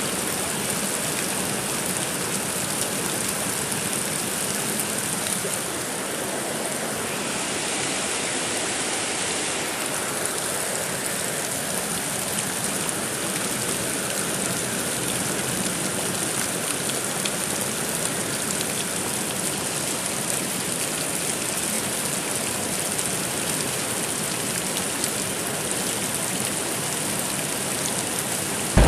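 Steady heavy rain, an even continuous hiss with no thunder.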